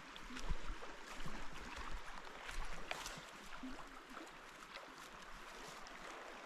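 Creek water running, with scattered small splashes and knocks.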